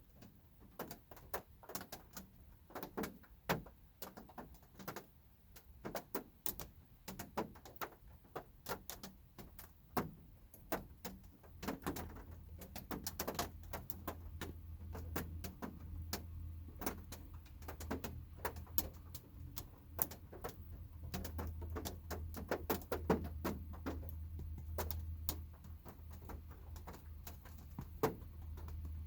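Light rain heard from inside a car: scattered raindrops tapping irregularly on the roof and glass. A low steady rumble comes in about twelve seconds in and continues under the taps.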